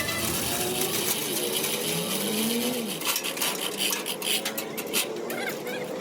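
Irregular scraping and rasping with many short clicks, like metal being worked by hand, busier in the second half.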